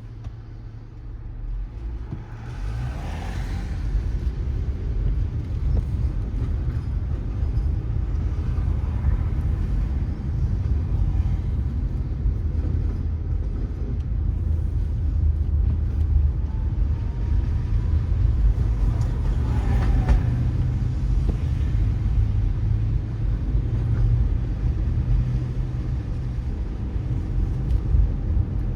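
Car driving on a wet road: a steady low rumble of engine and tyres with a hiss of water spray. It builds over the first few seconds as the car gets under way, and there are two brief swishes, about three seconds in and around twenty seconds in.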